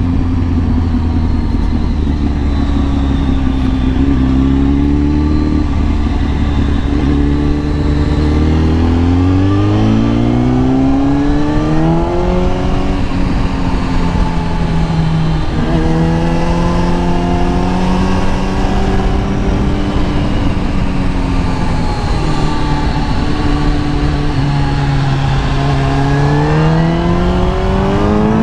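Kawasaki ZX10R inline-four engine under way: a steady low drone for the first several seconds, then revs climbing in steps with short drops between them as it shifts up through the gears, holding steady for a while, and rising again near the end.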